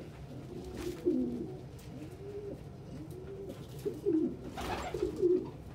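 Domestic pigeons cooing: a run of low, rising-and-falling coos, one after another, with a couple of brief rustles among them.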